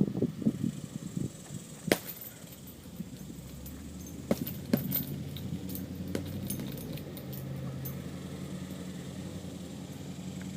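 A heavy bag being hit with quick low thuds in the first second, then a sharp knock about two seconds in. Scattered light clicks follow over a steady low hum.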